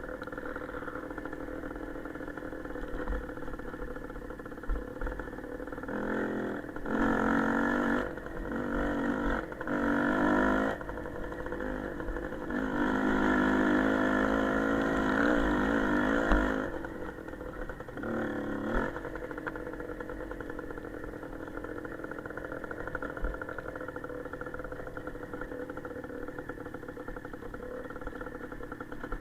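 Small motorcycle engine running steadily, opened up in several bursts of throttle through the middle, the longest lasting about four seconds.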